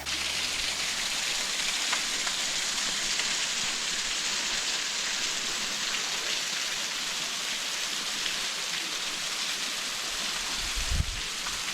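Waterfall splashing, a steady dense hiss of falling water. A few low thumps come near the end.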